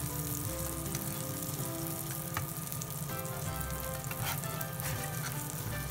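Mochi, bacon and cheese patties sizzling steadily in hot oil in a nonstick frying pan. A metal slotted spatula knocks against the pan a few times, most clearly about two seconds in.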